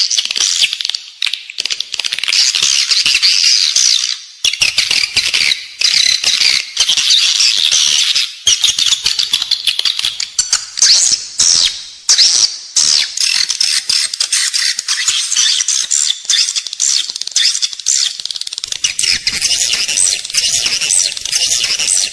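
Edible-nest swiftlets calling in a dense, high-pitched twitter with rapid clicking: a recorded swiftlet lure sound of the kind played to draw the birds into a nesting building.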